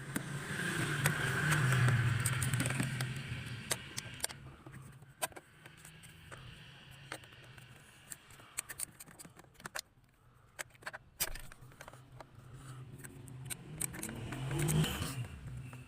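Car engine running with a steady low hum that swells about a second in and again near the end, with scattered clicks and scrapes.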